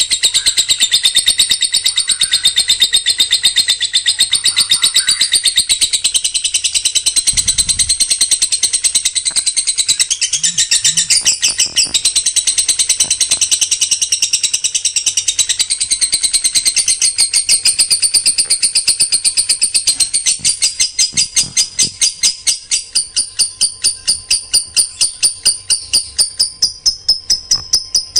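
A songbird singing a dense, rapid-fire run of sharp high notes. From about two-thirds of the way through, the notes separate into a fast, even series of several a second.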